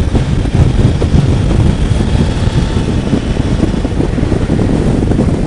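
Motorcycle underway: steady engine and road noise with wind rushing over the microphone.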